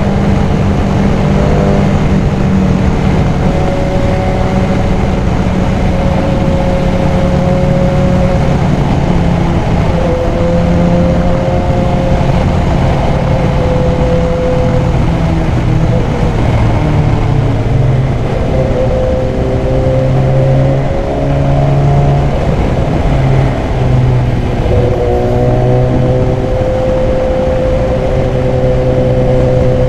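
BMW S1000XR's inline-four engine running steadily under way, its pitch drifting slowly up and down with a few small shifts in the middle, over a constant rushing noise.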